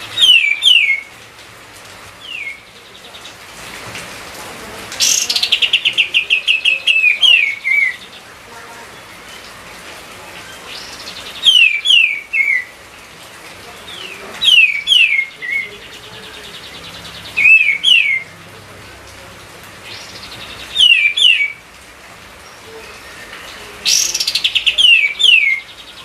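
Kapas tembak bulbul singing vigorously in short repeated phrases, each of two or three quick down-slurred whistles. Twice, a phrase opens with a rapid buzzy rattle.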